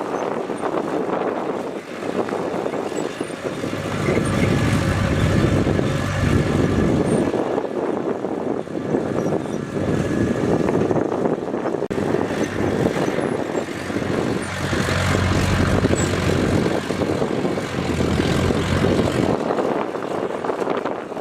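Komatsu bulldozer's diesel engine running under load as it pushes soil, swelling louder about four seconds in and again for several seconds past the middle, then easing.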